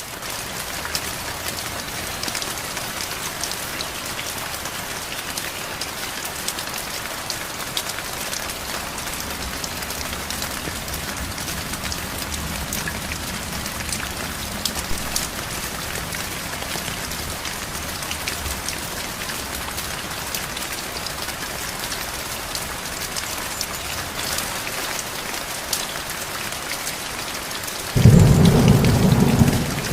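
Steady heavy rain with individual drops ticking, and a faint low rumble of distant thunder in the middle. About two seconds before the end a loud low clap of thunder breaks in.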